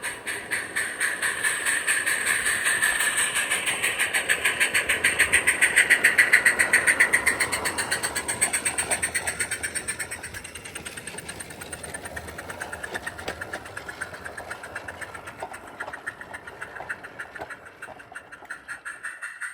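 Live-steam 7/8" scale Peckett-type model locomotive working with its Summerlands Chuffer, giving rapid, even exhaust beats over a steady hiss. It grows louder to a peak about six seconds in, then fades as it draws away.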